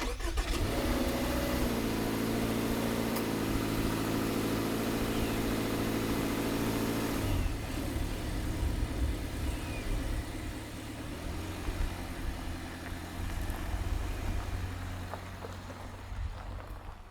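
Subaru Forester's flat-four boxer engine starting and running at a fast idle. About seven seconds in its note drops and weakens, and it fades out near the end.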